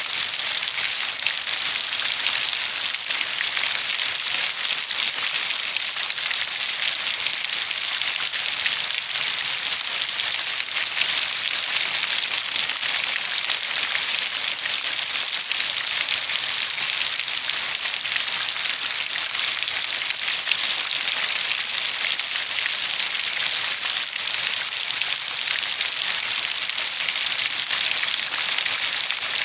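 Steady rain falling: an even, dense hiss of many small drops, strongest in the high range, unchanging throughout.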